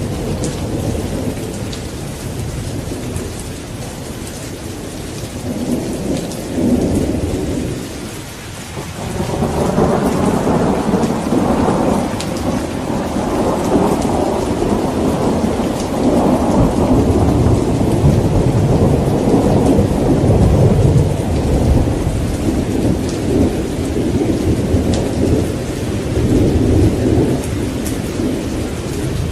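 Thunderstorm: steady rain falling, with rolling thunder. The rumble dips about eight seconds in, then swells again and rolls on for most of the rest.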